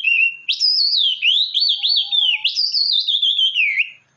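A songbird singing: a high, continuous warbling song of quick rising and falling notes in long phrases, breaking off just before the end.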